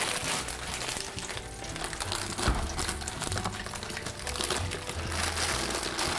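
French fries sizzling and crackling in the hot oil of a deep fryer, over quiet background music with a bass line.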